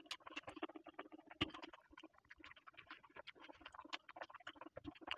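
Close-miked chewing of a mouthful of rice and chicken curry: soft, irregular wet mouth smacks and clicks, with one louder click about one and a half seconds in.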